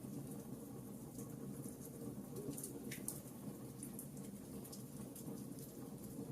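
Wood fire burning in a fireplace: a steady low hiss with scattered small, sharp crackles and pops from the logs.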